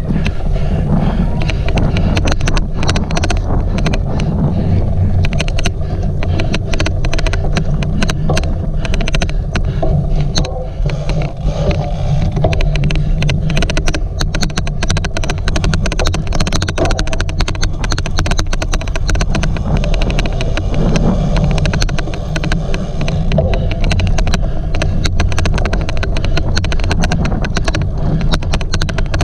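A cyclocross bike being ridden hard over rough ground: a heavy, steady rumble with a rapid, irregular odd clicking noise running through it.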